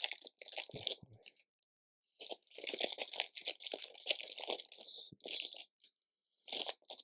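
Loose LEGO pieces being rummaged through by hand, a crunchy rustling and clatter in bursts, the longest lasting about three seconds in the middle.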